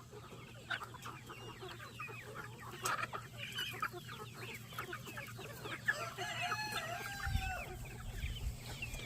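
A flock of chickens clucking and chirping, with a rooster crowing once about six seconds in.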